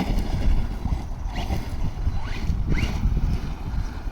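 Rival MT10 RC monster truck's electric motor revving in short rising whines as it accelerates to throw backflips, under heavy wind buffeting on the microphone.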